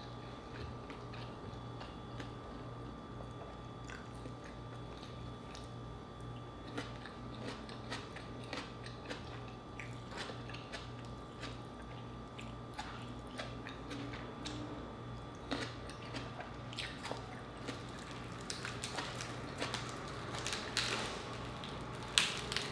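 Close-miked chewing and crunching of fried food, with scattered short crisp crackles that grow denser near the end, when the crispy pata (deep-fried pork knuckle) is pulled apart by hand. A steady low hum runs underneath.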